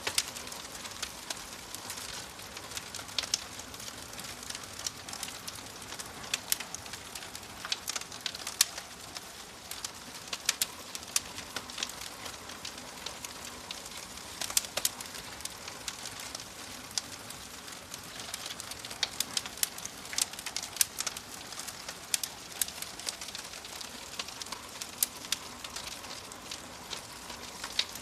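Wood fire crackling in a fireplace: irregular sharp pops and snaps over a steady soft hiss of burning.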